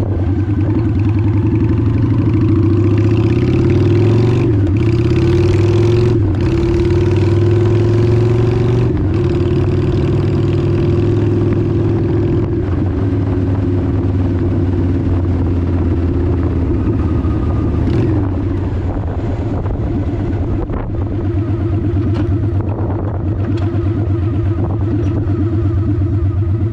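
Honda 750 motorcycle engine running steadily under way, heard from the bike itself. Its pitch dips and recovers several times, about 4, 6, 9 and 18 seconds in, with a steady rushing of wind behind it.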